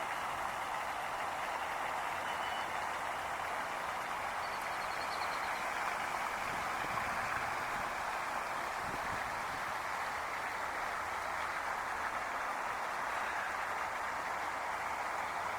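Steady, even rush of flowing water, like a stream or small waterfall, with no change in level.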